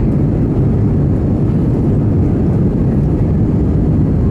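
Airbus A320's engines and airflow heard from inside the passenger cabin as a loud, steady low rumble.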